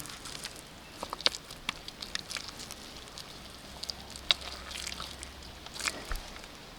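Wet clay being worked and pressed by hand: irregular squelching pats and small clicks.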